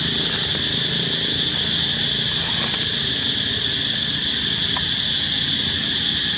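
Steady, unbroken chorus of insects, a loud high-pitched drone with a lower rumble of outdoor background noise underneath.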